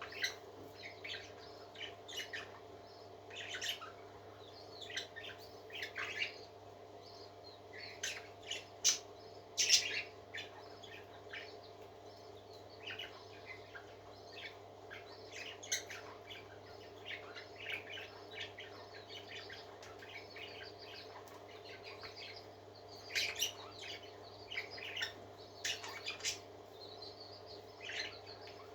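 A flock of pet parakeets chirping and warbling in quick, irregular bursts of short calls, with a few louder squawks, over a steady low hum.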